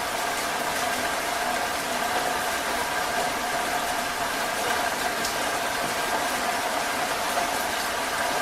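Heavy rain falling steadily, an even hiss without a break, with a faint steady hum of a few tones under it.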